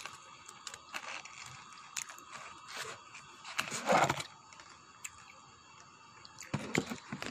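Close-up eating sounds: a person chewing pizza with small clicks and crunches. There is a louder scrape about four seconds in as the cardboard pizza box is handled.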